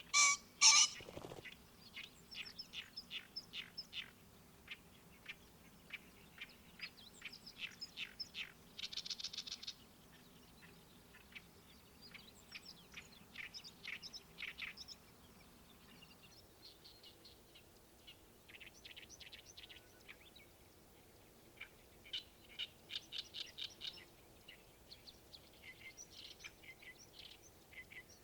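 Wild birds singing and chirping in quick runs of short repeated notes, with a loud harsh call right at the start. A faint low hum sits underneath and stops a little over halfway through.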